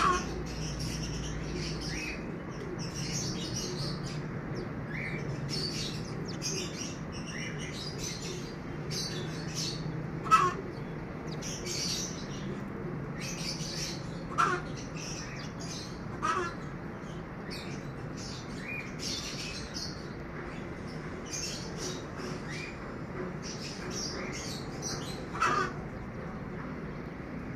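Birds chirping: a steady run of short high chirps, with a louder, lower call five times, the loudest about ten seconds in. A low steady hum runs underneath.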